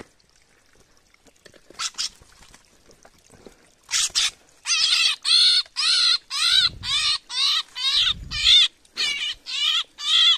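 A bird calling loudly and repeatedly, about two short calls a second, starting about four seconds in and continuing without a break.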